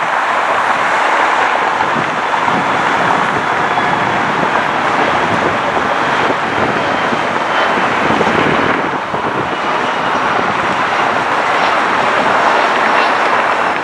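Steady roar of a jet airliner's engines, with a faint high whine coming in about halfway through.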